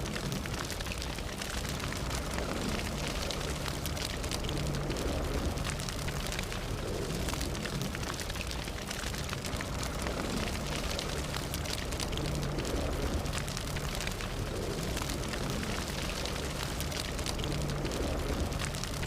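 Fire burning, with a steady low rumble under dense, constant crackling and popping.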